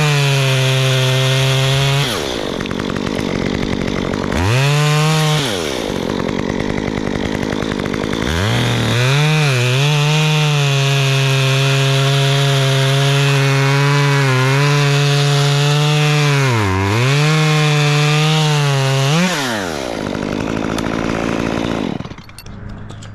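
Two-stroke chainsaw revved to full throttle, dropping back to idle between bursts. A short blip is followed by a long run at high revs, its pitch sagging briefly twice as the chain takes load in the wood. The saw then drops to idle, and the sound falls away sharply near the end.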